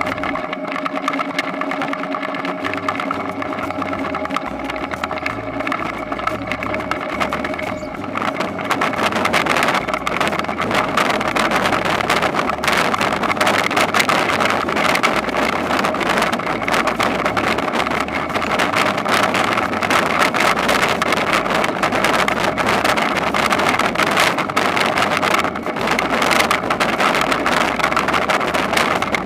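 Toyonoki potato harvesting machine running with a steady engine note. About eight seconds in it grows louder and rougher, a dense mechanical clatter that holds to the end.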